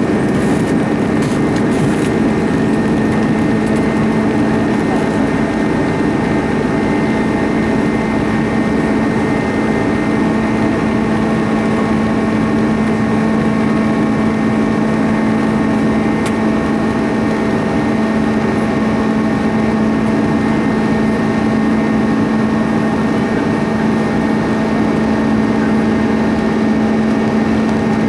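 Airbus A310 jet engines running steadily, heard from inside the passenger cabin as a constant drone with several fixed tones over the rush of air.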